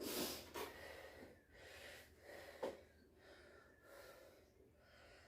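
A person breathing hard, recovering between heavy lifting sets, in a few soft audible breaths, with a short click about two and a half seconds in.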